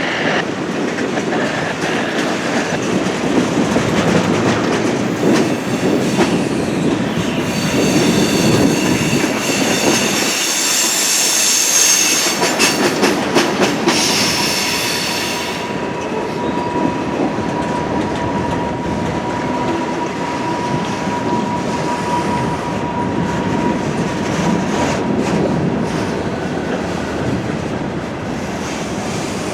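Freight cars of a Norfolk Southern train rolling past, wheels clacking over the junction trackwork. A high wheel squeal starts about seven seconds in and cuts off abruptly about halfway through, followed by a thinner, steadier squeal for several seconds.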